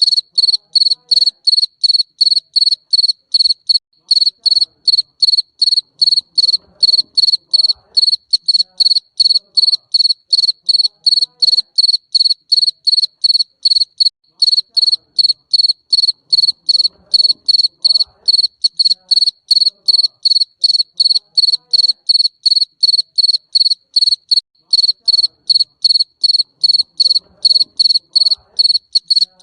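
Garden cricket chirping without pause: short, high-pitched chirps repeated evenly, about three a second.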